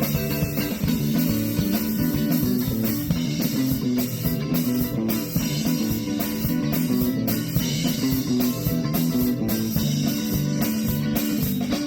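Live indie rock band playing an instrumental passage: electric guitar chords over drums, with no singing.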